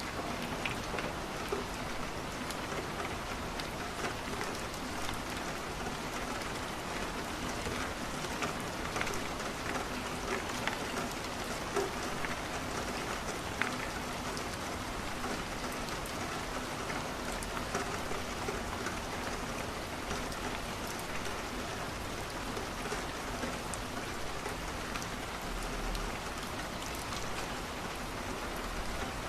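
Steady rain pattering on a window, mixed with the scattered small crackles of a wood fire burning in a fireplace.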